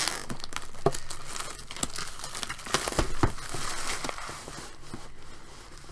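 Crinkling and tearing of a trading-card box's wrapping and cardboard as it is handled and opened, a dense run of crackles and sharp snaps that thins out near the end.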